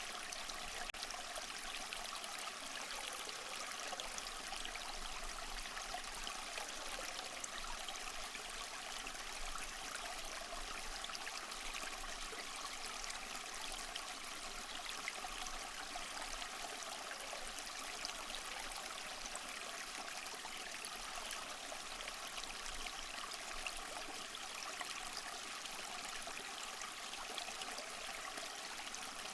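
Small waterfall: water splashing and trickling steadily over rocks, a light, even rush with little low rumble.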